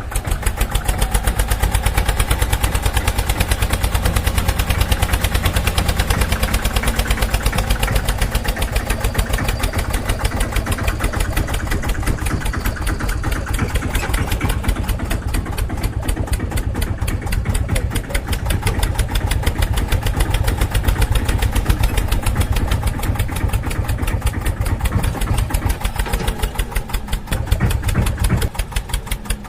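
Eicher tractor's diesel engine running steadily with a fast, even beat, briefly dropping and changing near the end.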